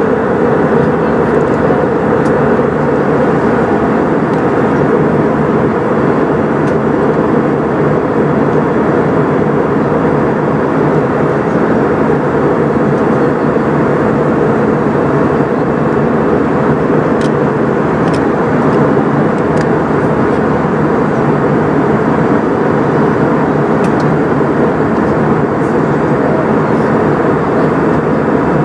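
Steady in-flight cabin noise of an Airbus A320 airliner: a dense, even rush of engine and airflow noise, deepest and strongest in its low range, with no change in level and a few faint ticks.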